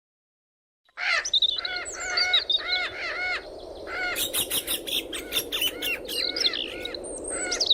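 Birds chirping: many short, arched chirps repeated in quick runs, with a few higher calls, over a steady outdoor background hum, starting about a second in.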